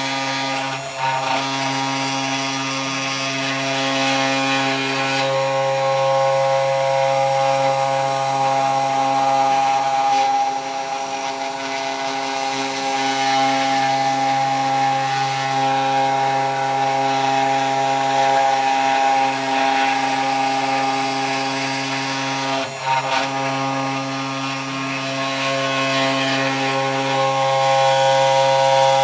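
Desktop CNC 3018 Pro router's spindle motor running with a steady whine while its bit cuts into wood with a rasping noise. The sound briefly dips twice, once near the start and once about three-quarters of the way through.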